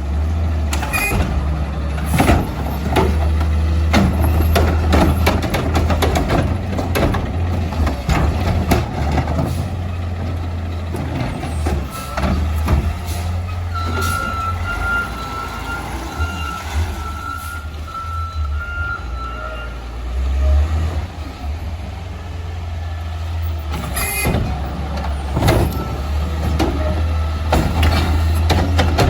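Peterbilt 520 garbage truck's engine running with a steady low rumble, broken by repeated knocks and clatter. A series of reversing beeps sounds around the middle, and a loud air-brake hiss comes near the end.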